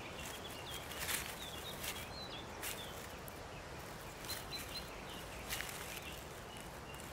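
Faint forest ambience with short, high bird chirps scattered throughout and a few sharp clicks and rustles of sticks as a golden eagle steps about on its nest of branches; the loudest click comes about a second in.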